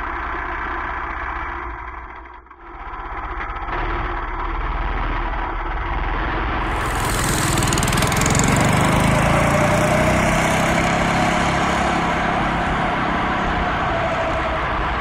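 Small gasoline engine of a home-built go-kart running steadily. It drops out briefly about two and a half seconds in, and a hiss joins it from about seven seconds in.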